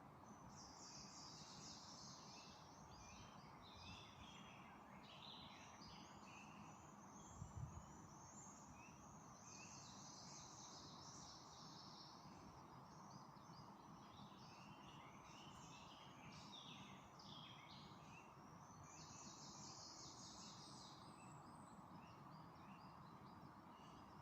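Songbirds singing faintly: a few bright trilling phrases about a second in, near the tenth second and near the twentieth, with scattered short chirps between. Under them is a steady background hiss and hum, and there is a brief low thump about seven and a half seconds in.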